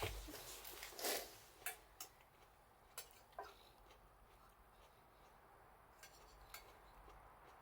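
Faint campfire crackle: a handful of scattered, sharp pops and snaps, several in the first three and a half seconds, then only a couple more, far apart.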